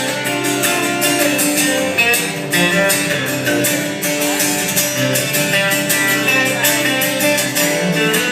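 Live country band playing an instrumental break led by guitar, over a steady beat.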